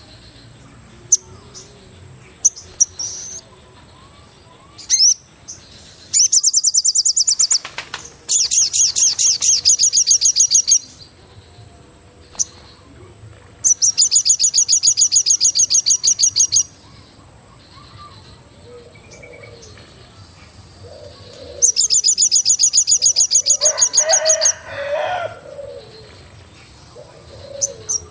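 Forest birdsong. A high, rapid, evenly pulsed trill lasting two to three seconds comes four times, and low cooing calls, like a dove's, join in the second half. A thin, steady high tone runs underneath.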